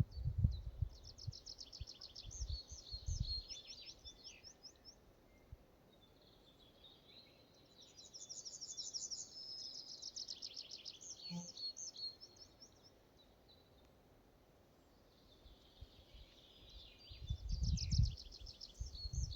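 A songbird singing three phrases of quick repeated notes, a few seconds apart, in a forest. Low irregular rumbling comes and goes near the start and near the end.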